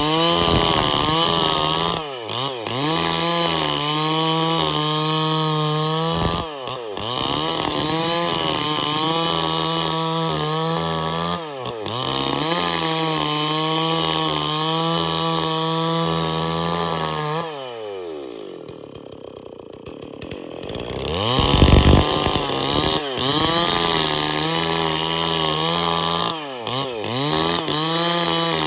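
Stihl MS440 two-stroke chainsaw running at full throttle, cutting through bayur wood, its engine note wavering under load and dipping briefly every few seconds. Past the middle it drops to a lower, quieter running for a few seconds, then revs back up and cuts again.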